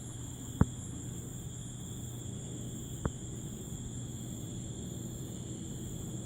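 Steady night-time insect chorus, a constant high shrill drone, over a low hum, with two sharp clicks, one about half a second in and one about three seconds in.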